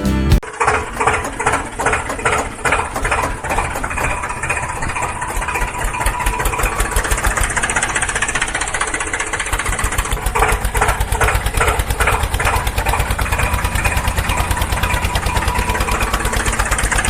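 Small engine running with rapid, even firing pulses, settling into a steadier run about halfway through.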